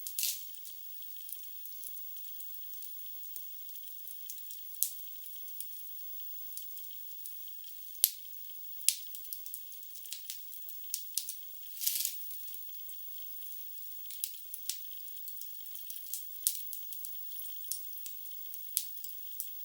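Wood fire crackling in a fireplace: an irregular run of sharp pops and snaps over a faint hiss, thin and without any low rumble. One loud pop comes about eight seconds in, and short hissing flare-ups come right at the start and about twelve seconds in.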